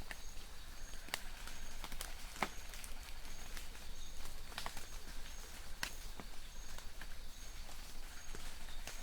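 Light rain in a forest: a soft steady hiss with scattered drops landing as sharp, irregular ticks. A faint, short high note from a distant bird repeats about every two-thirds of a second.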